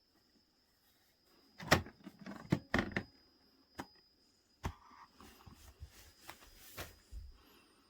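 A run of sharp clicks and knocks, like objects being handled and set down, bunched together between about one and a half and three seconds in, then single knocks and lighter taps further apart.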